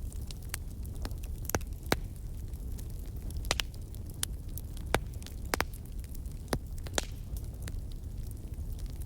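Fire burning in a fireplace: irregular crackles and sharp pops over a steady low rumble.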